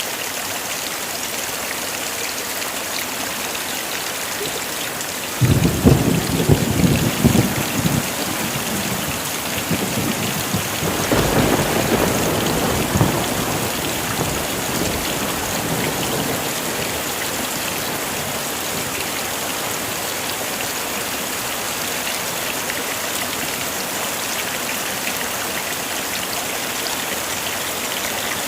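Heavy rain falling steadily, with a sudden crack of thunder about five seconds in that rumbles for a couple of seconds, then a second roll of thunder a few seconds later that dies away.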